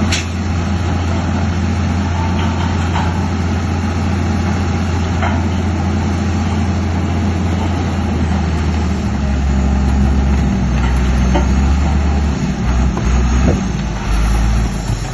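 Heavy construction machinery's diesel engine running with a steady low hum; its note shifts about nine seconds in and becomes uneven near the end. A sharp click sounds at the very start, and a few light knocks come through.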